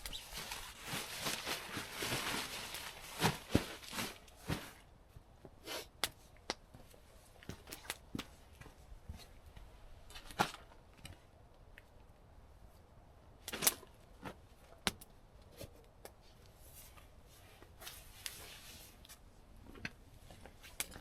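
Rustling and crinkling of handled material for the first few seconds, then scattered light clicks and taps.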